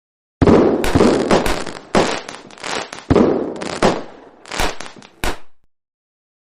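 A rapid series of loud bangs with crackling between them, starting about half a second in and stopping a little over five seconds in.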